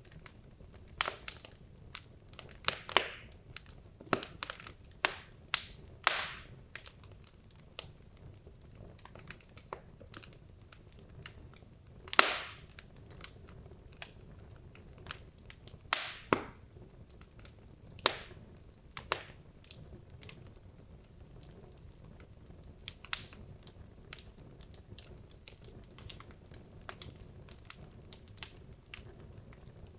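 Wood logs burning in a fireplace, crackling with irregular sharp pops and snaps, the loudest about twelve seconds in, over a faint low rumble.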